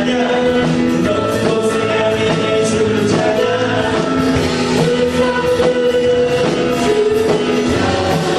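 Praise band playing a contemporary worship song with singers, drums keeping a steady beat of about two hits a second.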